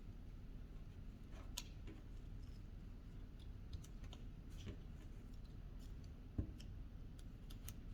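Faint, scattered clicks and light crinkles of paper strips being handled and woven into a paper nest, with a slightly louder tap about six seconds in.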